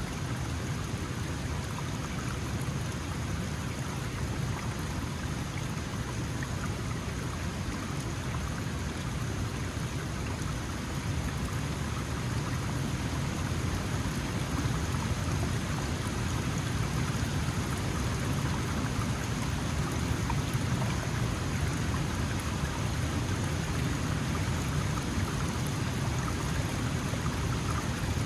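Small mountain stream flowing and babbling steadily, with a deep rushing low end.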